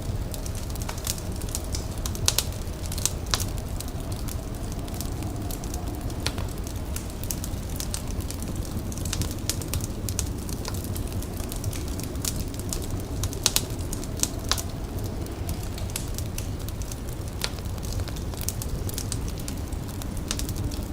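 A fire crackling, with irregular sharp pops and snaps over a steady low rumble.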